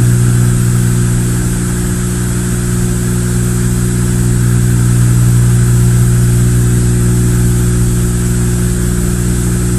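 Cessna 172's four-cylinder piston engine and propeller droning steadily in flight, an even low hum with no change in power.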